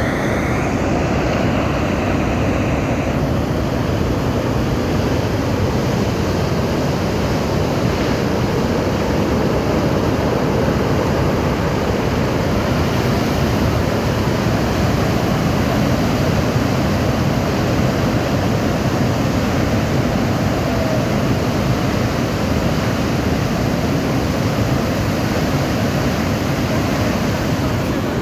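Naltar river in flood, water rushing loudly and without a break.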